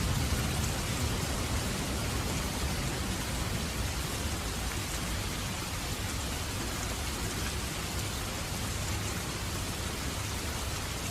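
Heavy rain falling steadily: a dense, even hiss of raindrops.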